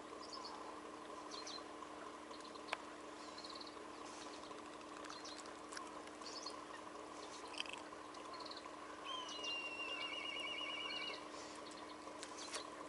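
Small songbirds calling: brief high chirps throughout, and one longer call near the middle that rises and then warbles for about two seconds. Faint lapping water and a few light clicks underneath.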